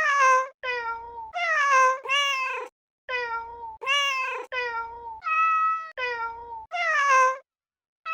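Cat meowing over and over, about ten short meows in quick succession, most dipping in pitch at the end, then a brief pause near the end.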